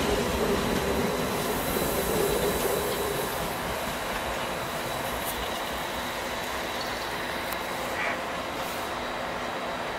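Passenger train rolling along the station track with a light squeal of wheels on rail. The sound eases off after about three seconds and then stays steady.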